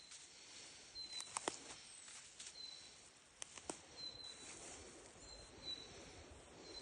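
Quiet forest ambience: short high chirps repeating about once a second, a few sharp clicks, and a faint hiss.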